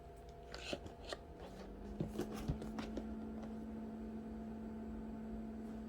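Objects being handled, with a few light clicks and rustles in the first half, then a steady low hum that sets in about a second and a half in and holds.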